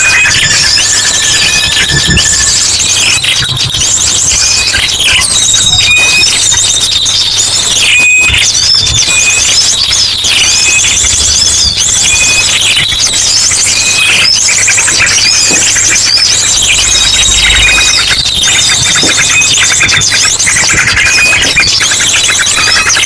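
Bird-lure recording: a dense, noisy chorus of many small birds chirping and trilling over one another, mixed with ashy drongo calls, used to draw small birds in. A long, steady high whistle holds for several seconds through the middle, over a faint low hum.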